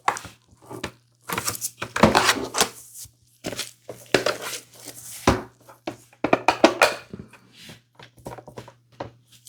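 Irregular clicks, knocks and rustling of a hard plastic object being handled, over a faint steady low hum.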